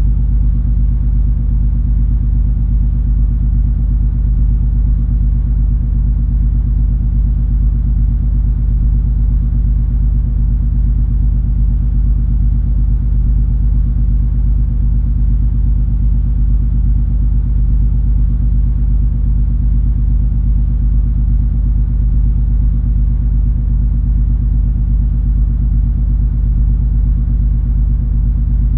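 Engines and machinery of the cruise ferry MS Color Fantasy under way: a steady, unchanging low drone with an even hum of several low tones.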